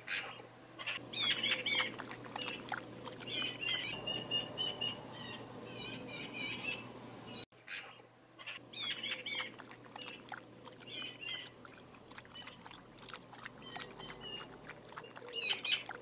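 Wild birds calling in clusters of quick, repeated high chirps every second or two over a low steady hum; the sound cuts off abruptly about halfway through and then picks up again.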